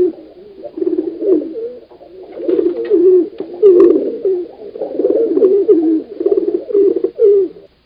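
Pied imperial pigeons cooing: deep, wavering coos repeated one after another, cutting off abruptly near the end.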